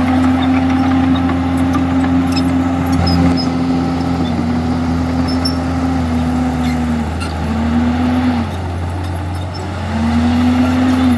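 Komatsu D51EX bulldozer's diesel engine running under load. Its pitch sags twice past the middle, dropping away briefly, then climbs back near the end, with scattered light clanks over it.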